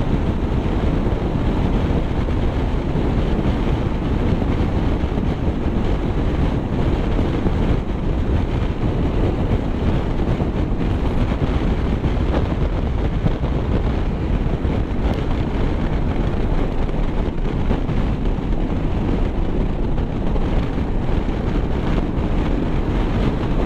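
Steady wind noise buffeting the microphone over the low rumble of a vehicle moving at speed, with no change through the stretch.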